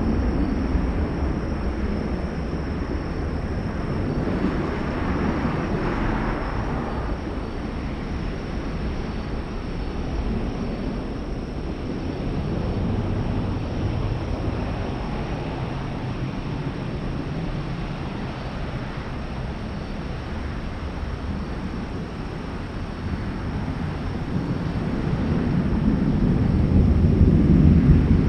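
Jet airliner engines of an Airbus A380, four Rolls-Royce Trent 970 turbofans, heard as a steady low rumble that grows louder over the last few seconds.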